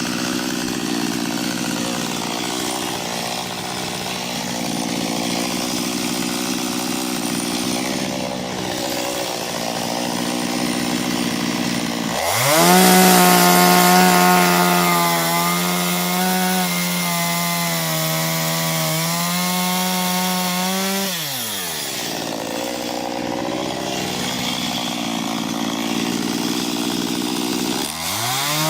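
Small chainsaw with a 15-inch bar working into a 20-inch ash trunk. The engine runs at a lower, steady pitch for the first twelve seconds, climbs sharply to a higher, louder pitch for about nine seconds, drops back, then climbs again near the end.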